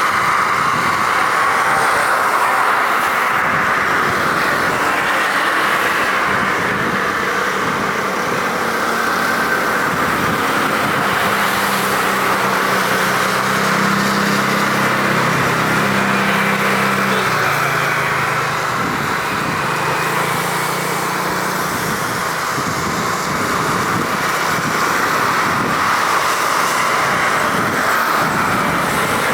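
Steady jet engine noise of an Airbus A330-300 airliner on its landing approach. A low hum rises and fades again about halfway through.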